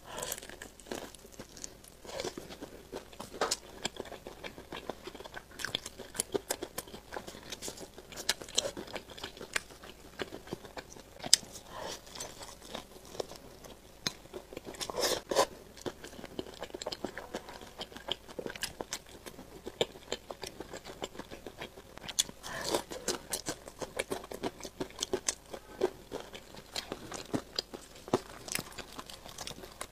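Biting and chewing fried chicken coated in cheese sauce: a string of irregular crunches from the breaded crust, with a few louder bites along the way.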